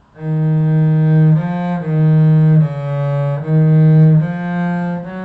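Cello bowing a short phrase of seven separate notes in F-sharp major: D♯, up to E♯, back to D♯, down to C♯, back to D♯, up to E♯, then F♯, held at the end.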